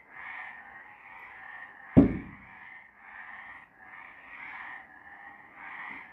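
A chorus of several frogs calling over one another, swelling and fading about once a second. A single sharp thump about two seconds in stands out above the chorus.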